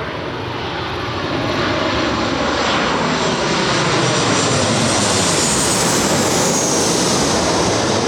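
Jet airliner's engines passing close by: a loud, swelling roar with a high whine that falls in pitch about five to seven seconds in as the aircraft goes past.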